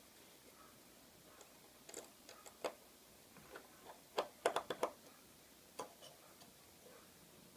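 Small sharp clicks and taps of repair tools and parts on an iPhone 5 during disassembly: a few scattered clicks, then a quick cluster of five or six about halfway through, then one more.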